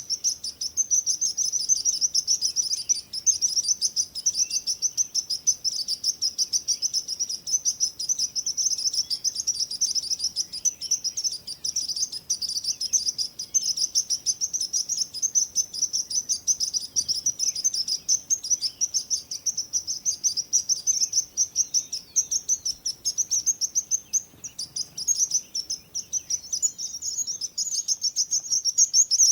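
Birds chirping: a dense, unbroken stream of rapid, high-pitched chirps overlapping one another.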